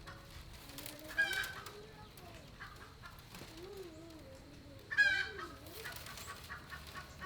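Chickens calling: two loud, short calls, one about a second in and one about five seconds in, over softer, lower wavering calls.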